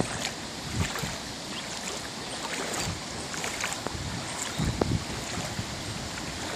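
Floodwater sloshing and splashing, with scattered small splashes and wind gusting on the microphone.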